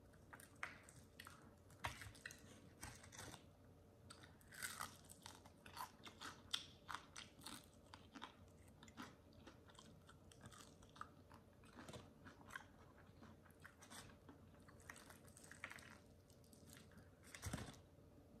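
Close-up mouth sounds of a person biting and chewing crispy fried chicken: soft, irregular crunches of the breaded skin with wet chewing between them, and one louder crunch near the end.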